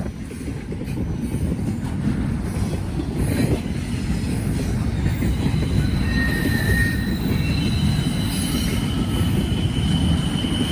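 Freight train passing close by: a steady rumble of rolling cars, with wheels squealing in long high steady tones from about halfway through.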